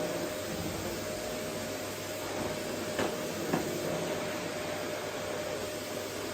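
Vacuum cleaner running steadily: an even rushing noise with a steady whine. Two small knocks come a little past halfway, half a second apart.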